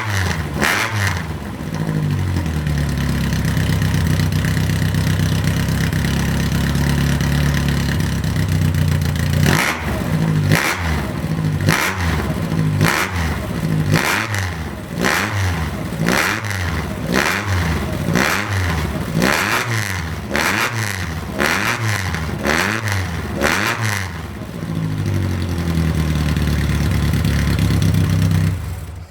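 Isuzu Bellet 1600GT-R's twin-cam inline-four running through a full straight-through competition exhaust and headers. It runs steadily at first, then is blipped again and again, about once a second, before settling back to steady running.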